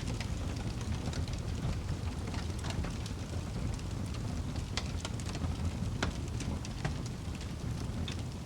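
Wood fire burning in a fireplace, with a steady low rumble of the flames and irregular sharp crackles and pops from the burning wood.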